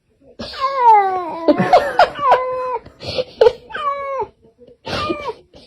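A cat meowing loudly, about five drawn-out calls, each falling in pitch, the first the longest.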